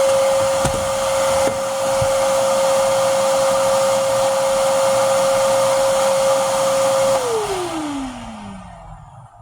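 Vacuum cleaner running steadily with a high motor whine. It is switched off about seven seconds in, and the whine falls in pitch and fades as the motor spins down.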